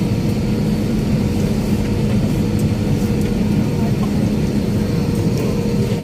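Steady engine drone of an airliner heard from inside the passenger cabin, a dense roar with a low hum and a faint higher tone held even throughout.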